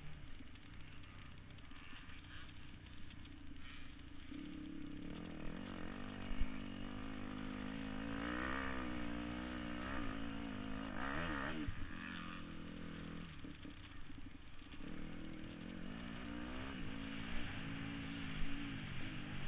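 Dirt bike engine revving up and down, its pitch rising and falling as the throttle is worked. It comes in a few seconds in, backs off briefly about two-thirds of the way through, then picks up again.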